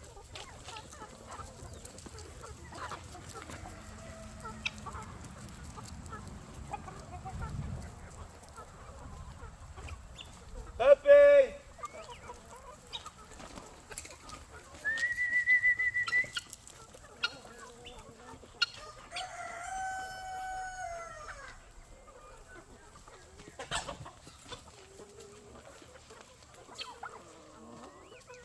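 Chickens clucking around the coop, with a rooster giving one long crow about twenty seconds in.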